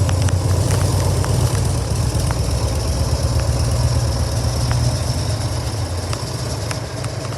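Harley-Davidson FXDL Dyna Low Rider's 1580 cc air-cooled V-twin idling steadily, a little quieter near the end.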